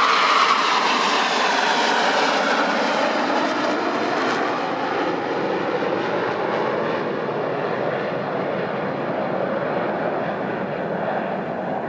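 Jet roar of the Black Eagles' T-50B Golden Eagle formation flying past, its pitch falling over the first few seconds as the jets pass, then slowly fading.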